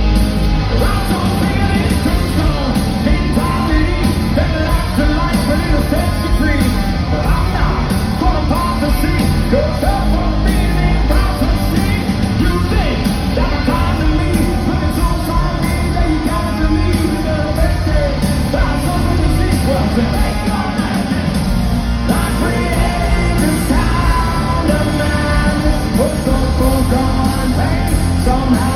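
Live hard rock band playing loud: drums, distorted electric guitars and bass, with yelled and sung vocals.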